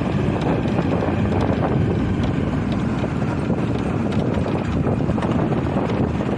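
Steady rumbling road and wind noise from a motorbike on the move, with irregular small knocks and rattles over the road surface.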